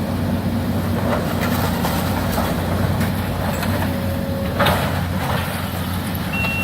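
Demolition excavator's diesel engine running steadily, with a sharp clank of debris about four and a half seconds in. A reversing alarm starts beeping right at the end.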